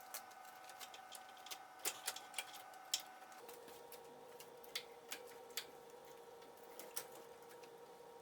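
Irregular light clicks and ticks of a stuck fuel line fitting being worked by hand on a Ford Freestar's 3.9L V6, a few sharper ones bunched around two to three seconds in. A faint steady hum runs underneath and shifts in pitch a little past three seconds in.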